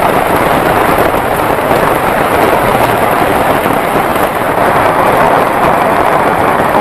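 Heavy rain pouring down in a steady, dense, crackling hiss.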